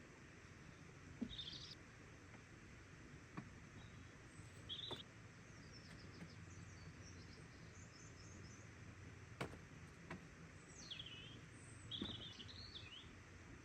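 Faint birdsong: scattered short chirps and brief call phrases, a few of them falling in pitch, over quiet outdoor background hiss, with a couple of soft clicks.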